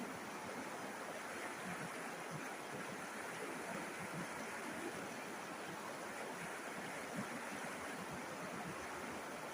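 A river flowing over rocks: a steady rushing and babbling of water with no change in level.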